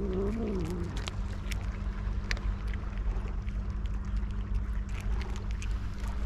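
A cat meowing, one long wavering call that ends about a second in, followed by a steady low rumble with scattered faint clicks.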